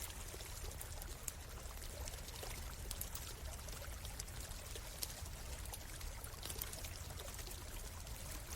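Forest stream running steadily, with a wood campfire crackling over it in scattered sharp pops, a couple of them louder.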